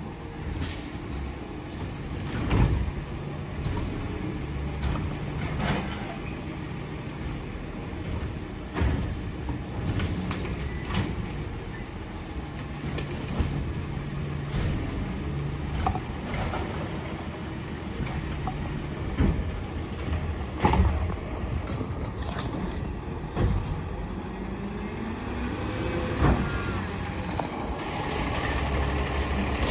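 Autocar Expeditor garbage truck with a Bridgeport Ranger body working a trash pickup: its diesel engine runs and revs up and down, rising in pitch near the end. Sharp knocks and bangs recur every few seconds.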